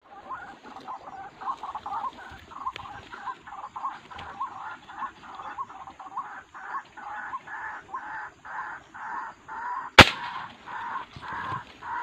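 A bird calling a steady series of short repeated notes, about two or three a second, and one sharp rifle shot about ten seconds in.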